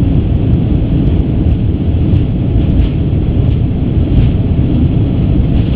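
Steady low rumble heard from inside the cockpit of an Airbus A350 rolling out on the runway just after touchdown: engine noise and wheels on the runway as the airliner slows down.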